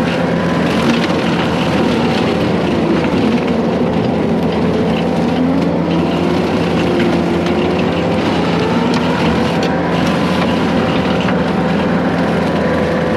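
Case 140 excavator's diesel engine and hydraulic brush cutter running steadily, with a whine that wavers up and down in pitch.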